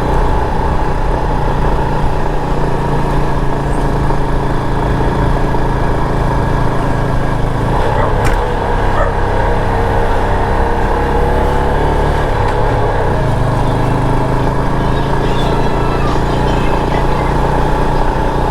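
Motorcycle engine running steadily under way, with wind and road noise, and a brief knock about eight seconds in.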